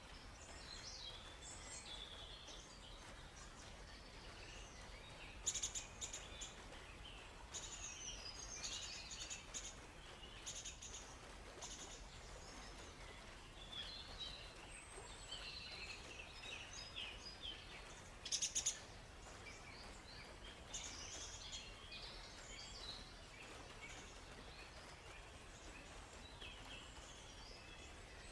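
Several small songbirds chirping and warbling in a forest, with two louder bursts of rapid notes about five and eighteen seconds in, over a faint steady hiss of flowing water.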